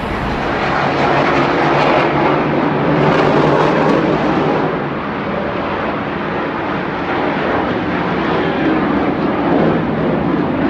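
Blue Angels fighter jets flying over: loud, steady jet noise, its high hiss fading about halfway through.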